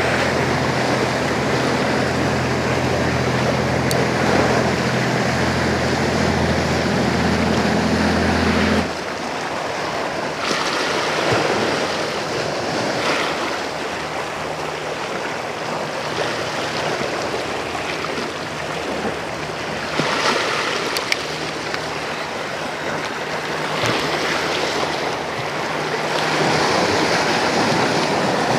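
Sea waves washing and surging against shoreline rocks. For about the first nine seconds a boat engine hums steadily underneath, then it stops abruptly.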